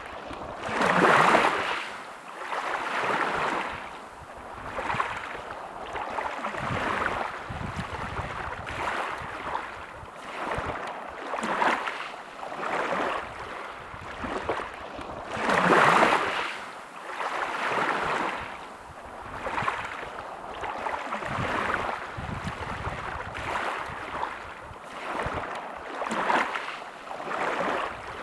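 Sea waves washing onto the shore, a rushing sound that swells and falls back every second or two, with two bigger breaking waves, one about a second in and one just past halfway.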